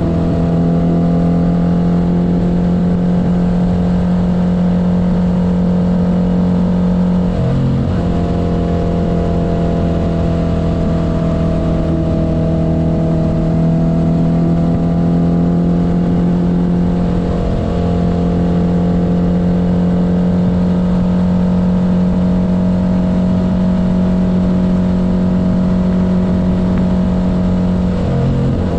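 1972 Honda CB500's air-cooled inline-four engine running at a steady cruise under way. Its note breaks briefly about 8 seconds in, again about 18 seconds in, and near the end.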